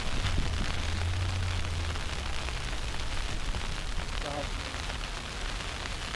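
Steady hiss of snowstorm street ambience, with a low rumble that stops about two seconds in and a brief distant voice about four seconds in.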